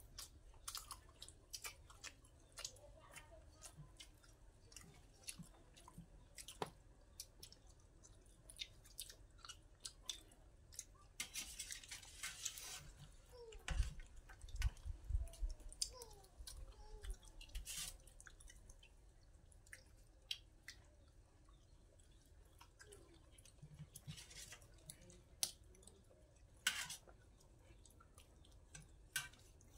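People eating a fish curry with their fingers: quiet chewing and mouth noises, with scattered small clicks and taps and a brief rustle a little before halfway.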